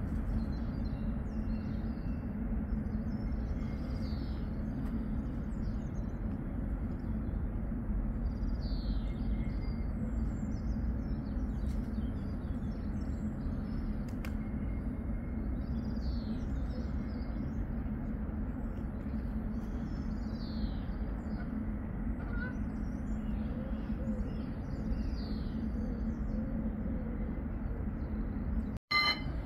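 Birds singing short chirping phrases every couple of seconds over a steady low rumble, with the sound cutting out abruptly just before the end.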